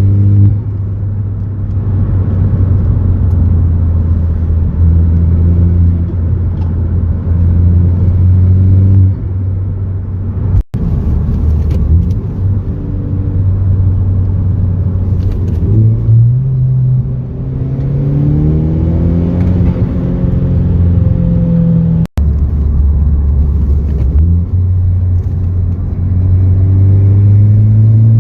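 Ford Focus ST's turbocharged four-cylinder engine running through an MBRP cat-back exhaust while driving: a steady drone at cruise that climbs in pitch under acceleration a little past halfway, then drops back after a shift. The sound breaks off abruptly for an instant twice.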